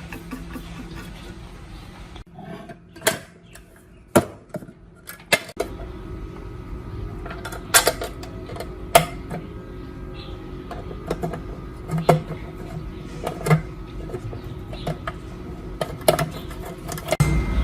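Metal parts and tools clinking and knocking against each other, in separate sharp strikes about one to two a second, with a steady low hum coming in partway through.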